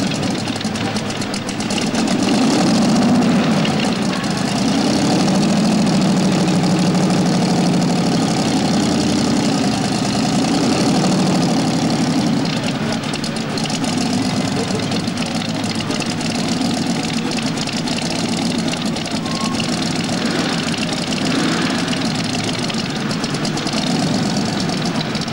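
Supercharged hot rod engine running, its revs rising and falling for the first ten seconds or so, then settling into a steady idle.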